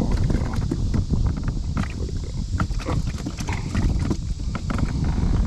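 Wind buffeting the microphone in a steady low rumble, with many light clicks and knocks from the rod, reel and kayak as a hooked fish is reeled in.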